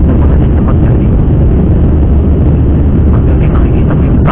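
Steady, loud low rumble of a jet airliner's engines and airflow, heard from inside the passenger cabin.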